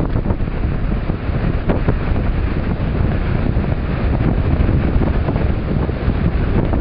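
Strong blizzard wind buffeting the microphone, a loud, gusty low rumble.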